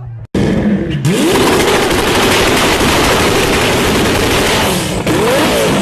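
A car's exhaust crackling and popping in a rapid, almost continuous barrage, like machine-gun fire, with the engine revving under it. It starts abruptly a moment in.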